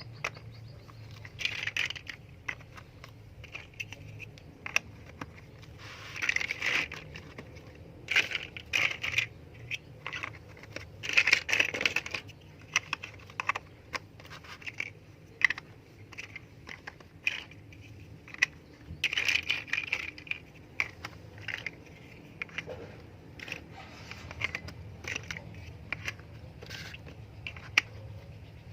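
LEGO plastic bricks clicking, clattering and scraping as they are handled and fitted together, in irregular clusters of sharp clicks, over a faint steady low hum.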